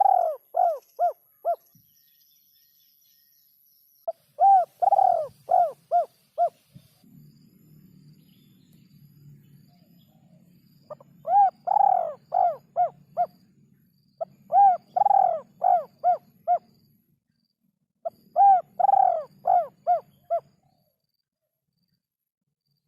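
Spotted dove (derkuku) cooing in repeated phrases, each a quick run of about six to seven arched coos. Five phrases come a few seconds apart, with a faint low hum underneath from about a third of the way in to about three quarters.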